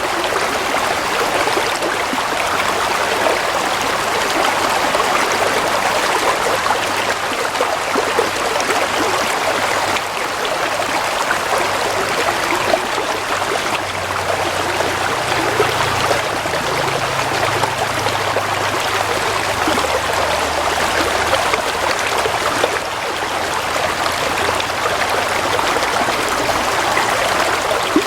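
Stream of water flowing and trickling steadily, with no breaks.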